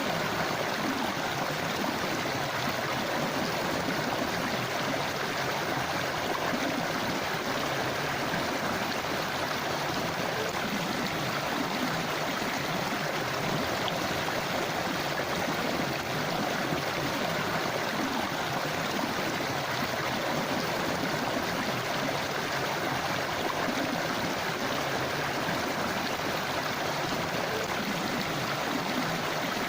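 Forest river flowing steadily over rocks: an even rush of water with gurgling, unchanging throughout.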